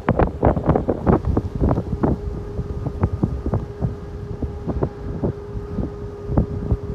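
Strong wind buffeting the microphone in irregular gusts. A steady hum comes in underneath about two seconds in.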